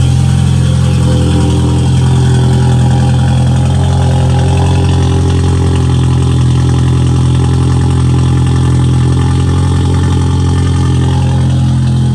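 2016 VW Passat's turbocharged 1.8-litre four-cylinder running on a cold-start idle with its muffler cut off, exhausting through a bare tailpipe. The note is loud and steady throughout.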